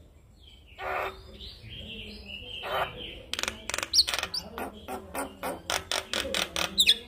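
Male Javan myna (jalak kebo) singing: a couple of harsh, scratchy notes, then a fast run of sharp clicking notes at about four or five a second, with brief high whistles mixed in.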